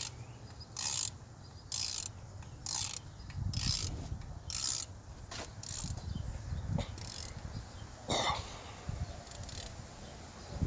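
Ratchet wrench clicking in short bursts, roughly one a second, as the handle is swung back between pulls to tighten the EGR valve bolts.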